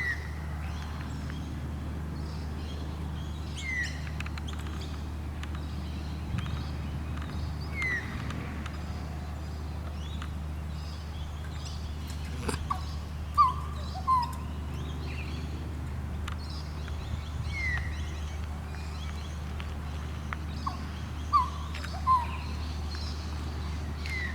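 Butcherbirds singing: sparse, clear whistled notes, a short falling note every few seconds and, twice, a louder pair of lower piping notes, over a steady low hum.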